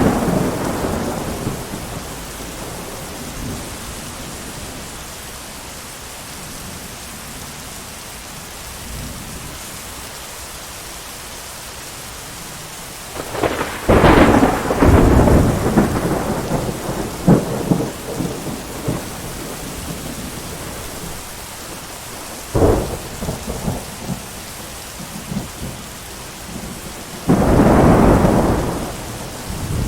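Steady heavy rain with thunder: a peal is fading at the start, a loud crash and rumble comes about halfway through, a short sharp crack follows about 22 seconds in, and another rumble rolls in near the end.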